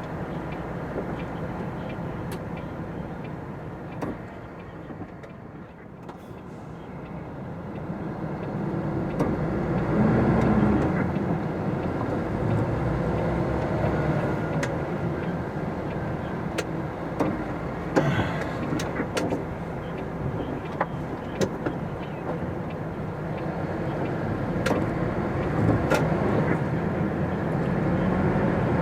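Cab interior of a MAN TGX articulated lorry on the move: the diesel engine and road noise run low and steady, grow louder from about six seconds in as the truck pulls away and gathers speed, with a few sharp clicks and knocks from the cab.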